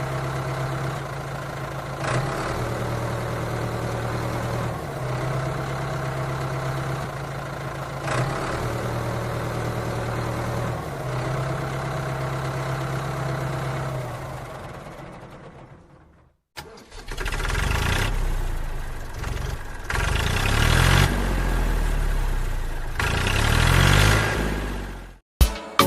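Tractor engine idling steadily, the same pattern recurring about every three seconds, then fading out. After a brief silence an engine runs again with repeated rising and falling revs. Sharp clicks come near the end.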